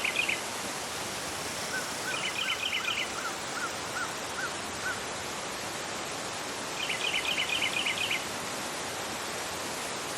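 Fast-flowing river rushing over a rocky bed, a steady hiss of water. Birds chirp over it: short bursts of chirps right at the start, about two seconds in and about seven seconds in, and a run of eight short whistled notes, about two a second, between about two and five seconds.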